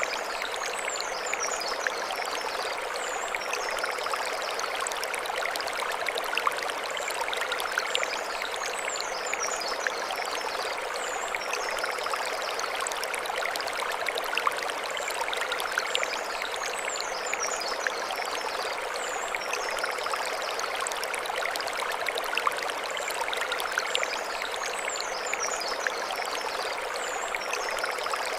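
Mountain stream running steadily over stones. A high, quick phrase of chirps recurs about every eight seconds above the water.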